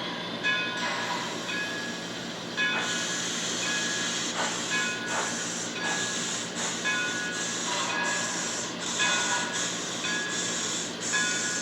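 HO scale model steam locomotive sound decoder playing steam exhaust chuffs through the model's small speaker, about two beats a second with hiss. The chuffing grows stronger about three seconds in.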